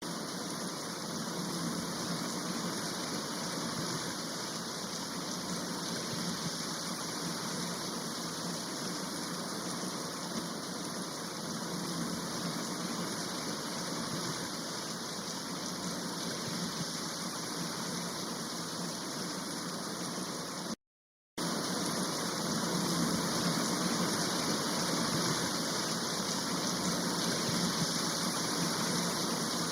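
Kirkjufellsfoss waterfall: a steady rush of falling water that breaks off completely for about half a second roughly two-thirds of the way through, then resumes slightly louder.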